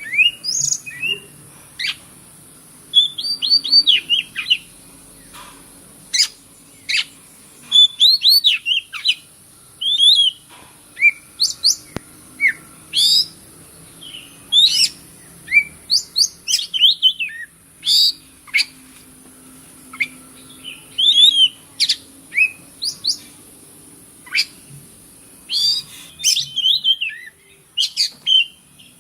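Oriental magpie-robin singing a varied string of short chirps and quick sweeping whistles, in irregular phrases with brief pauses between them, over a steady high hiss.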